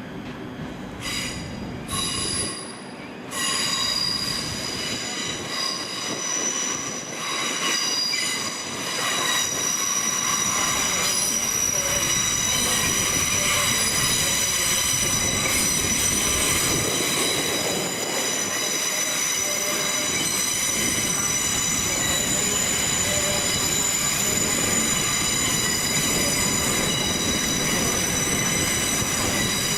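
Train wheels squealing on curved track as a train moves slowly through the station, a chord of several high pitched tones over a low rumble. The squeal comes in short bursts at first, then holds on steadily and louder from about four seconds in.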